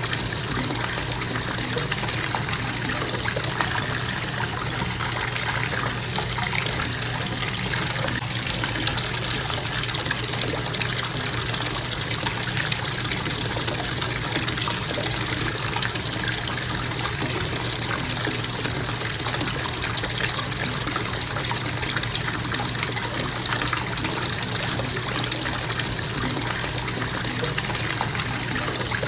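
Bathtub faucet running with a constant flow of water into the tub, a steady, even rush that does not change.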